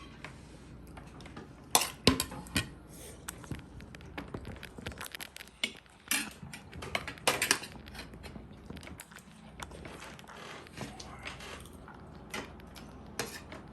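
Cutlery clinking and scraping on plates as people eat, in scattered sharp clicks, with the loudest clinks about two seconds in and again around six to seven seconds.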